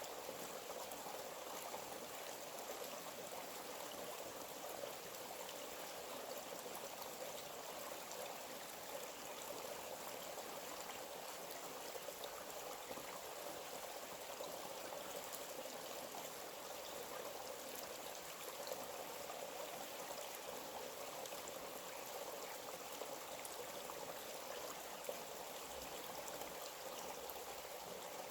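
A forest stream running steadily over rocks, an even rushing and trickling of water.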